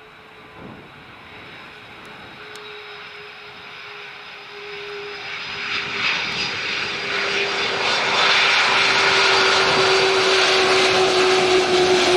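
Boeing 767 jet engines growing steadily louder as the airliner comes in to land. A steady whine slips slowly lower in pitch under a rushing roar that swells and is loudest in the second half.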